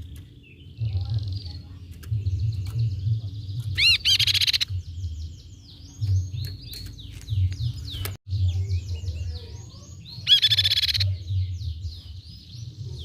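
Crescent-chested babbler (tepus pipi perak) calling: a series of quick, sweeping chirps, with two short, louder buzzy bursts about 4 seconds in and again near 10 seconds.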